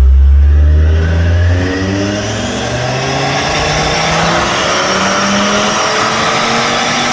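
Car engine accelerating under load on a chassis dynamometer during a power run, its pitch climbing steadily as the revs rise. A deep rumble fades out about a second and a half in.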